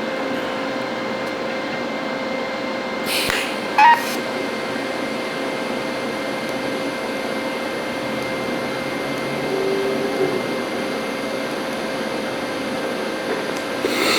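TIG welding arc on stainless steel, a steady hiss with a constant hum under it, burning evenly as the weld bead is run. A brief sharp sound about four seconds in.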